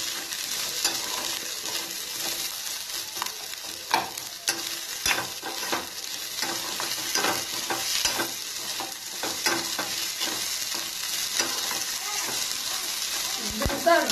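Sliced onions, green chillies and whole spices frying in a little oil in a small steel pan with a steady sizzle, while a steel spoon stirs them, scraping and clinking against the pan at irregular moments.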